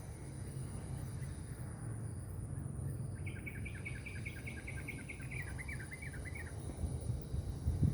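Yellow-vented bulbul (trucuk) singing one fast chattering phrase of about three seconds, beginning a few seconds in, over a steady low rumble and a thin, steady high-pitched whine.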